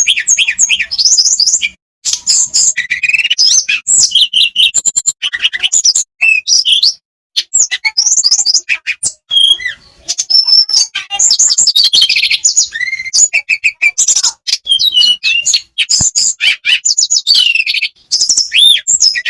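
Blue flycatcher (tledekan) song: a long, fast run of varied, high whistled phrases with quick trills and rapid rising and falling notes. It stops briefly a few times.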